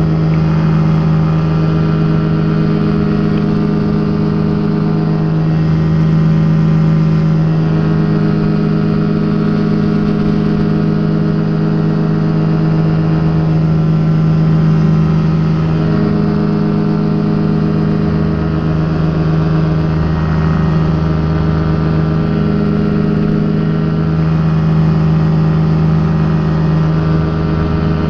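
Rotax engine and propeller of a Quad City Challenger ultralight running at steady flight power: a loud, even drone with small rises and falls in power.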